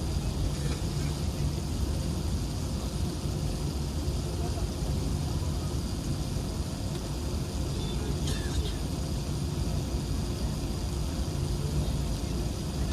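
Steady low cabin rumble inside an Airbus A380 on the ground, its engines running at low power, with a faint click about eight seconds in.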